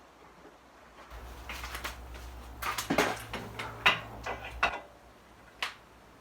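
Scattered metallic clinks and knocks of hand tools and brake parts as a car's front brake caliper is unbolted, with a single sharp clank about five and a half seconds in.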